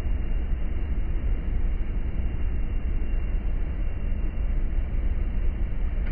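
Steady, dense noise of a hailstorm coming down, heaviest as a low rumble, with no single impact standing out.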